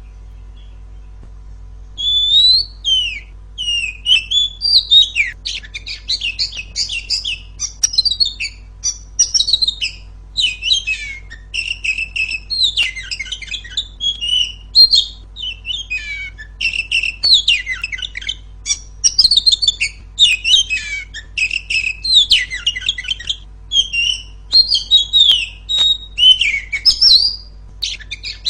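Female oriental magpie-robin (kacer) singing loudly: rapid, varied phrases of whistles, chirps and short trills in near-continuous succession, starting about two seconds in after a short pause. A steady low hum runs underneath.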